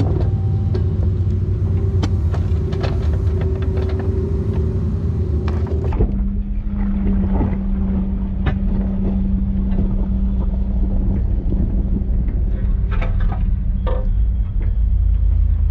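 Mini excavator's diesel engine running steadily under digging load, with scattered clanks and scrapes from the bucket working dirt and stone. The engine note shifts abruptly about six seconds in.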